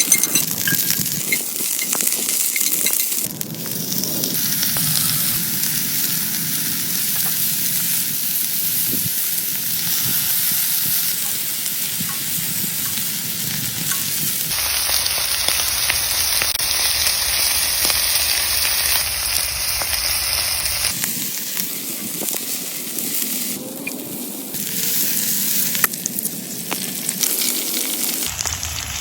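Food sizzling and frying in a pan, with a steady dense sizzle whose character changes abruptly several times.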